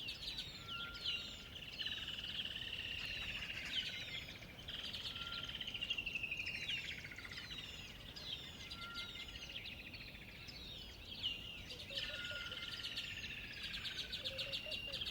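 Several songbirds singing together, rapid trills and chirps overlapping. A short, steady whistle recurs every few seconds.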